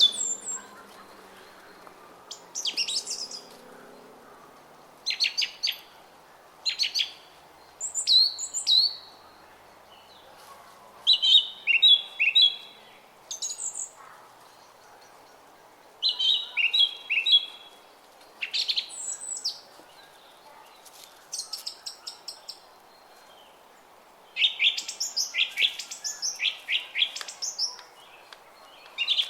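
Small songbirds chirping and twittering in short, high phrases every second or two over the steady rush of a flowing brook.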